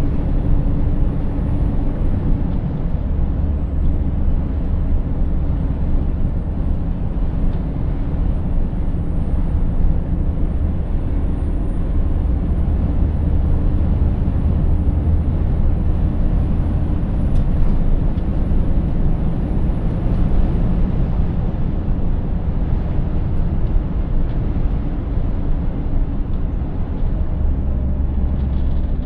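Scania 590S truck's V8 diesel engine running at a steady cruise with tyre and road noise, a steady low rumble. A faint high whine sits over it and fades out about two-thirds through.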